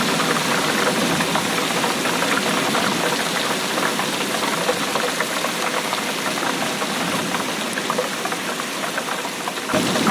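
Steady rainfall: a dense patter of many drops. Just before the end the sound changes abruptly and takes on more low rumble.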